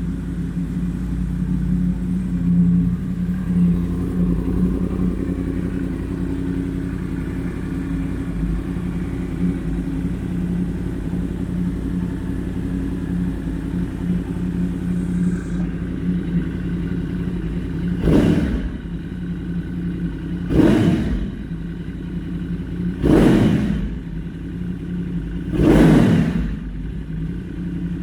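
2016 Yamaha YZF-R1's 998cc crossplane inline-four idling steadily through a Graves aftermarket exhaust. In the last third the throttle is blipped four times, each a short rev that rises and falls back to idle, about two and a half seconds apart.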